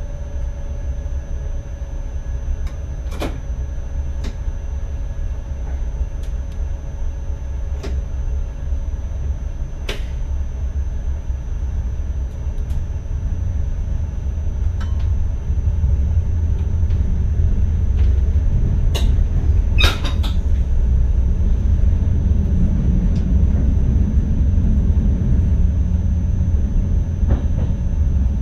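Inside the cab of an NS ICM 'Koploper' electric train running along the track: a steady low rumble that grows gradually louder, with sharp clicks from the wheels and rails now and then and a small cluster of them about two-thirds of the way through.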